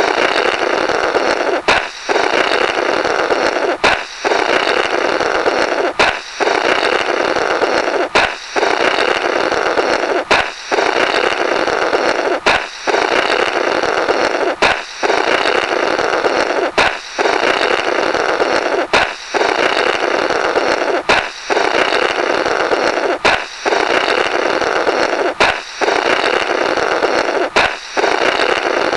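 A comical "Blorrrt" sound effect repeated about every two seconds: a sharp balloon pop, then a long, rough blow through the burst balloon's remnants, cutting off just before the next pop.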